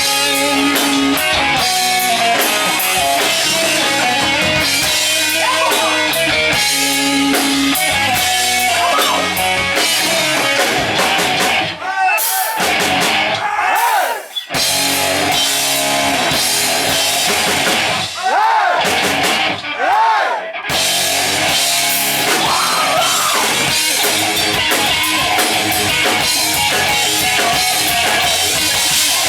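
Live heavy metal band playing: distorted electric guitar lead with bent, wavering notes over drums and bass. Twice around the middle the drums and bass drop out briefly, leaving the guitar bends on their own.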